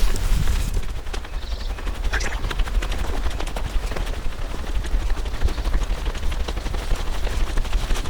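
Footsteps hurrying through dry forest leaf litter: fast, continuous crunching and rustling, over a steady low rumble of wind or handling noise on the microphone.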